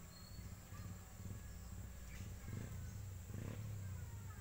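Faint short bird chirps over a low, uneven rumble that swells twice in the second half.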